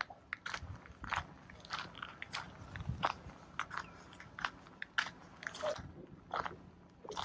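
Footsteps crunching over dry twigs and leaf litter, a crunching step roughly every half second or so.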